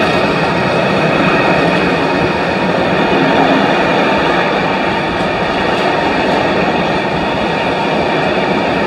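A long train of empty yellow engineering flat wagons rolling past on the rails, a steady, unbroken rumble and rattle of wheels and couplings.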